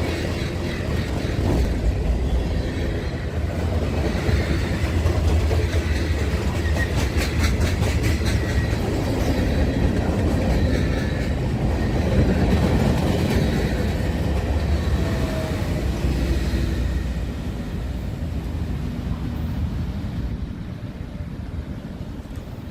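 Train rolling past on the track, with a run of evenly spaced wheel clicks about a third of the way through; the sound fades over the last few seconds.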